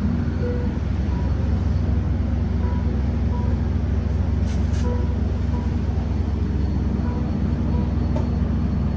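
Steady low rumble of an idling diesel passenger locomotive standing at a station, with two brief high hisses of air about four and a half seconds in.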